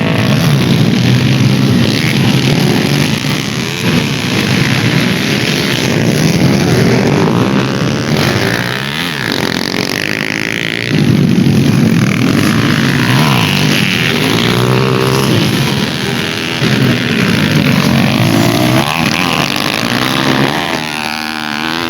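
Dirt bike engines racing, revving up and down over and over as the riders accelerate and shift.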